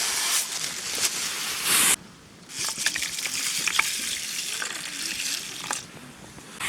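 Oysters sizzling and hissing as they cook over a wood campfire, with sharp pops and crackles. The hiss cuts off suddenly about two seconds in, then starts again with the pops.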